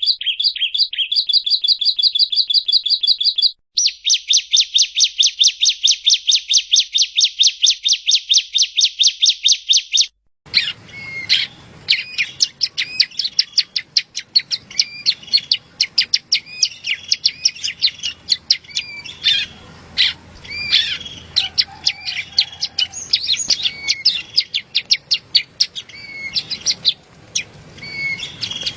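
Yellow-bellied prinia (prenjak rawa) song: a fast run of identical chirps, about eight a second, with a brief break a few seconds in. About ten seconds in, a hissier recording takes over, with quicker, more varied chirps and trills.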